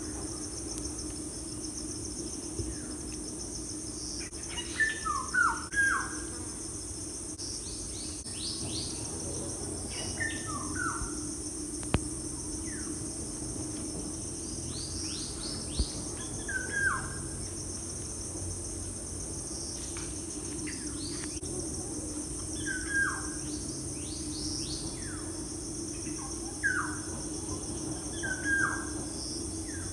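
Birds singing in short phrases of quick downward-sliding whistled notes, one phrase every five or six seconds, over a steady high-pitched hiss.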